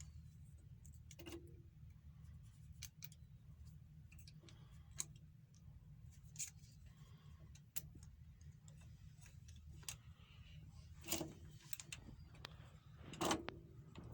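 Scattered light metallic clicks and clinks of hand tools on engine parts over a low steady hum, with two louder knocks near the end.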